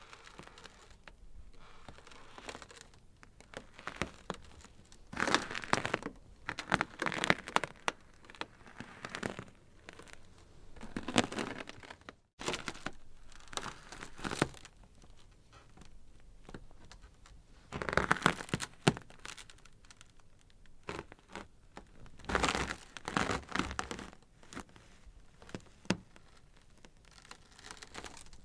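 Ice crackling and cracking: irregular clusters of sharp cracks and fizzing crackles that swell and fade every few seconds, with a brief break about twelve seconds in.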